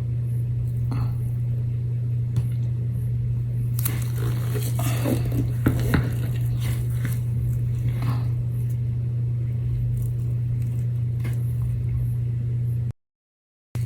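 A steady low hum, with faint scrapes and small clicks of small objects being handled in the middle stretch. The sound cuts out completely for under a second near the end.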